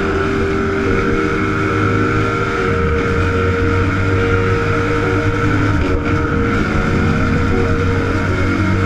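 Dirt bike engine running steadily while riding.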